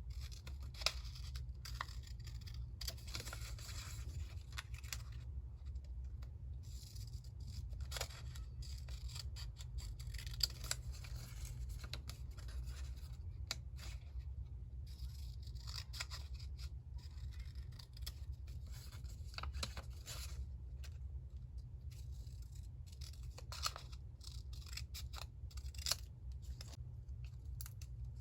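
Scissors cutting paper in irregular short snips with paper rustling between them, over a steady low hum.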